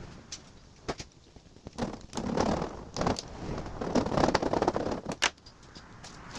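Crackling and crinkling of foil-backed sound-deadening mat and its backing paper as it is peeled and handled, in several short bursts, with a few sharp clicks and taps between them.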